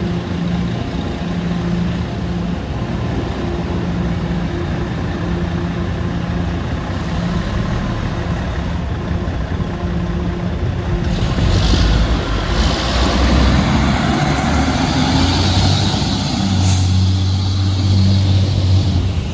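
Fire engine running steadily, then growing louder and deeper about eleven seconds in as it pulls away, with two short hisses of air.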